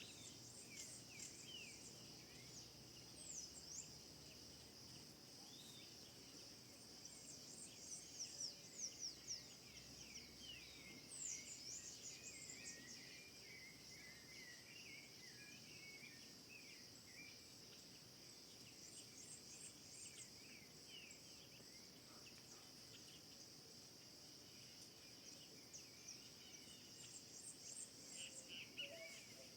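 Faint nature ambience: a steady high-pitched insect drone with many short bird chirps and calls over it, busiest a third of the way in and again near the end.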